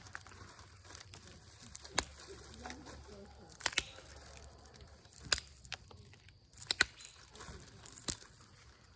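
Pressure flaker (Ishi stick) detaching flakes from an Onondaga chert point: a sharp snap every second or two, some in quick pairs, as the edge is shaped.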